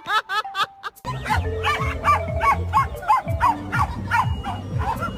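A dog barking in short, high yips, quickly at first and then about two to three times a second, over background music with a steady beat.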